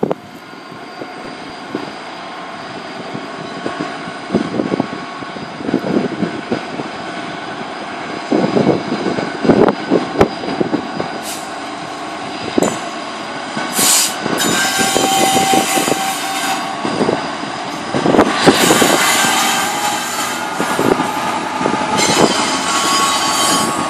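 Freightliner Class 66 diesel freight train passing, its wheels knocking and clicking over the track, with high-pitched wheel squeal setting in about halfway through and continuing.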